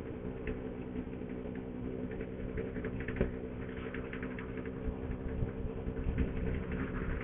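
Motorcycle engine running at a steady speed, a low even hum with a fast, light mechanical clatter over it.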